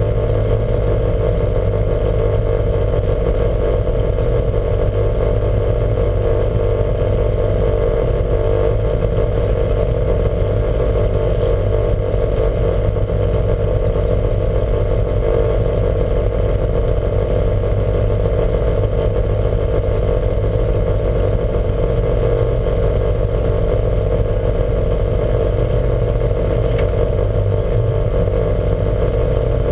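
Lancia Montecarlo's engine running at a steady speed, with no rise or fall in revs.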